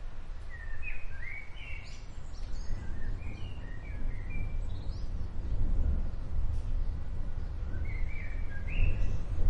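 Small birds chirping in short calls over a steady low rumble of distant thunder from an approaching storm. The rumble swells about six seconds in and again at the end.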